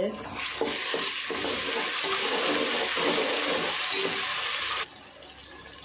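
Onions and ginger-garlic paste sizzling in hot oil in a metal pot while a steel spoon stirs and scrapes through them. The sizzle is loud and even, then stops abruptly about five seconds in.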